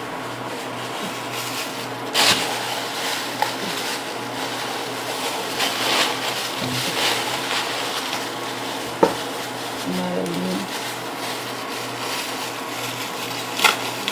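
Electric fan running steadily, with a few sharp clicks and taps of small objects being handled on a table, and a brief low tone about ten seconds in.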